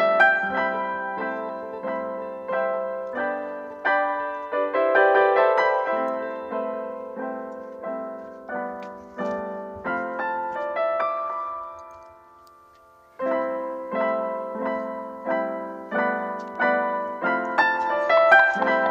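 Background piano music: a melody of struck notes that fades away a little past the middle, then starts again abruptly after a brief pause.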